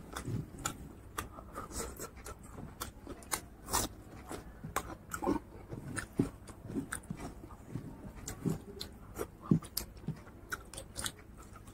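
Close-miked eating sounds: chewing with wet mouth clicks and lip smacks, plus soft squishing as fingers mix rice and pork curry on a banana leaf. It comes as a string of short, irregular clicks and smacks.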